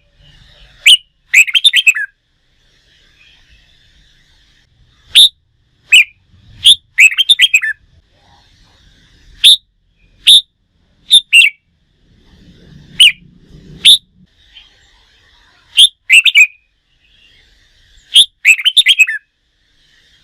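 Red-whiskered bulbul singing: loud, short, sharp whistled phrases, a single note or two followed by a quick run of notes, repeated every few seconds, with fainter chatter of other birds behind.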